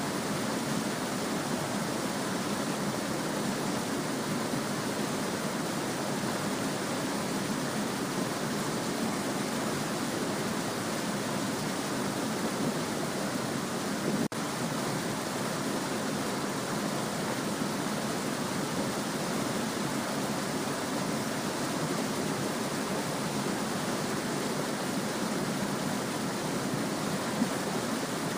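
A small stream babbling and rushing steadily over its bed, with a momentary dip in level about halfway through.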